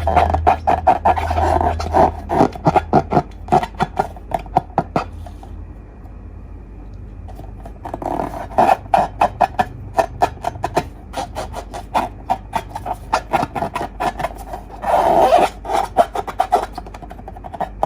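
Slime being squeezed and worked by hand, making rapid wet clicks and pops, with a quieter stretch about six seconds in before the clicking picks up again.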